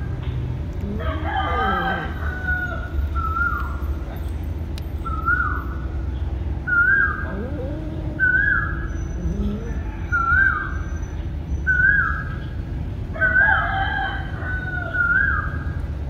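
Birds calling: a run of short, repeated calls about once a second, with longer calls that glide up and down in pitch near the start and again near the end.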